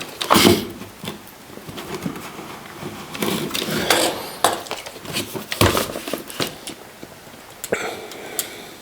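Irregular scrapes, taps and clicks as a blade slits the seal sticker on a cardboard box while the box is handled.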